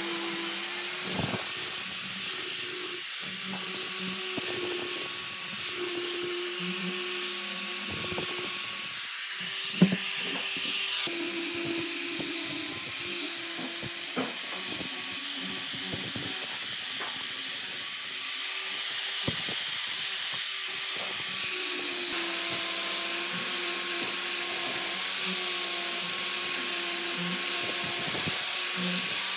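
Electric power tool working wood, its motor running steadily under changing load, with a few sharp knocks.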